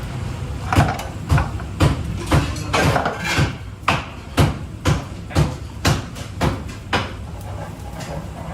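Kitchen work: about a dozen heavy knocks at a steady pace of roughly two a second, which then stop.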